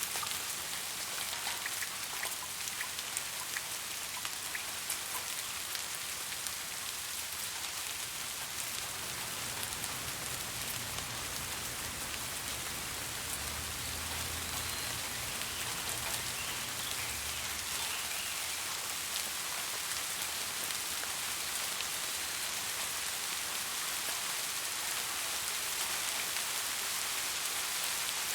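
Steady rain falling, an even hiss with scattered drop ticks, and a faint low rumble in the middle stretch.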